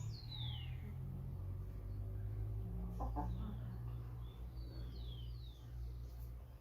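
Chicken giving short, high chirps that fall in pitch, a cluster at the start and another around five seconds in, over a low steady hum.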